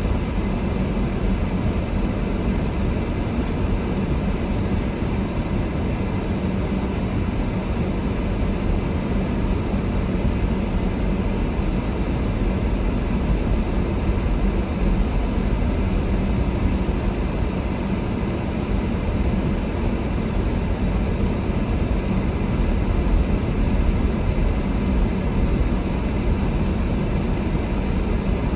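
Steady running noise inside a moving car: a low engine hum and tyre rumble from the road, with no breaks or changes.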